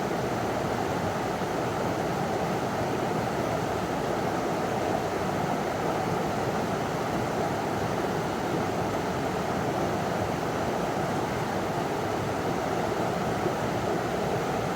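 River water running over a small waterfall: a steady, even rushing with no breaks.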